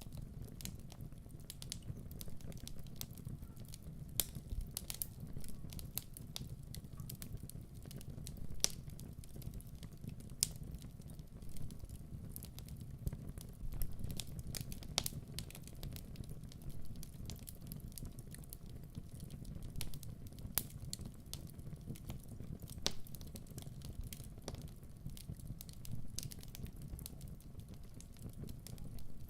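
Wood fire in a fireplace crackling, with sharp, irregular pops and snaps over a steady low rumble.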